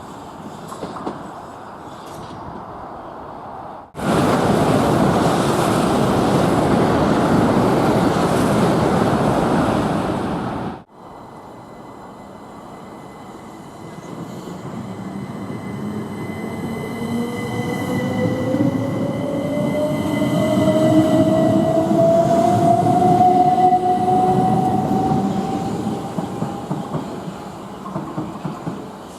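Trains at a station platform. About four seconds in, a loud, even rush of train noise starts and stops abruptly. It is followed by an electric train whose motor whine rises steadily in pitch as it gets louder, then eases off near the end.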